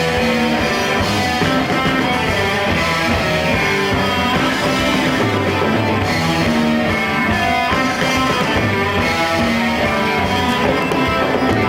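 Live rock band playing an instrumental passage with no vocals, led by guitar.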